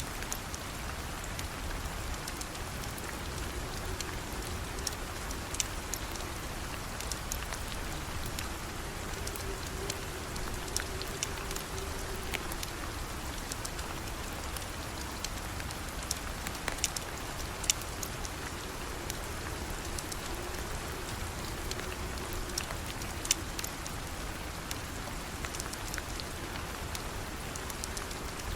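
Steady rain falling, with scattered sharp pops and ticks from a burning wood fire. A faint, wavering low hum runs underneath.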